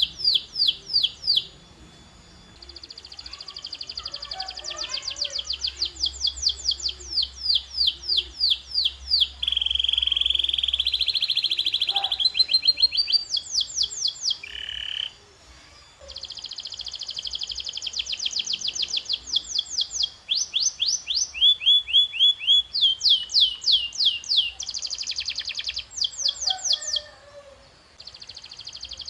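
Canary singing in rolling tours: phrase after phrase of rapidly repeated high notes, each phrase a few seconds long, with a lower, smoother trill about ten seconds in and brief pauses between some phrases.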